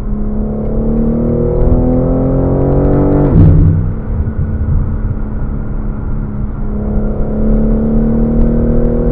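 Car engine accelerating hard: its pitch climbs for about three seconds, drops suddenly at a gear change, holds steadier, then climbs again through a second pull near the end.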